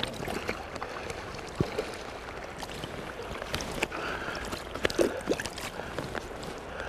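Flowing river water with scattered small splashes and clicks.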